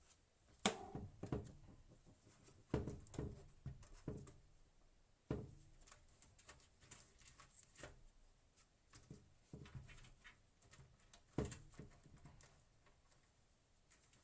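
Irregular light knocks and clicks of objects being handled, a few seconds apart, the sharpest about a second in.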